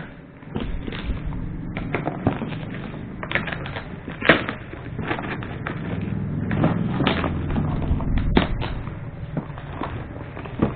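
Tightly wrapped package being unwrapped by hand: plastic wrapping and cardboard crinkling and rustling, with sharp cracks and knocks, the loudest about four seconds in and again about eight seconds in.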